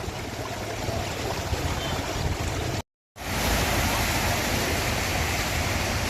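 Steady rush of floodwater from an overflowing river, a continuous even wash of noise. It breaks off for a moment about three seconds in and resumes slightly louder.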